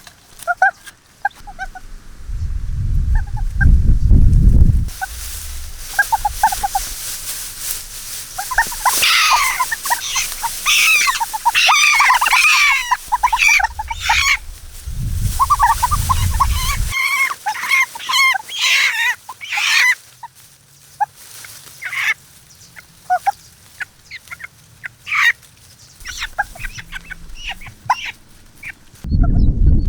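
Birds calling, many short overlapping calls that are busiest in the middle, with two loud low rumbles, one near the start and one about halfway through.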